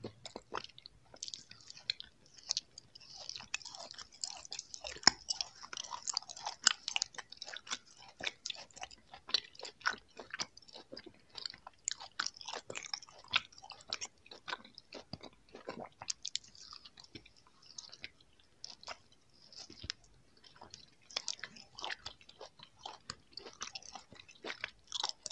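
Close-up chewing and biting of soft, sugar-coated orange jelly candies: a steady run of small mouth clicks and smacks.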